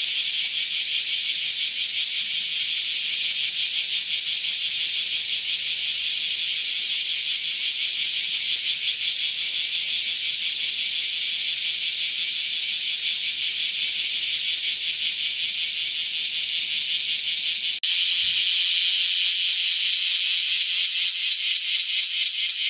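Cicadas calling: a loud, continuous, high-pitched buzz made of very rapid pulses, with a momentary break about eighteen seconds in.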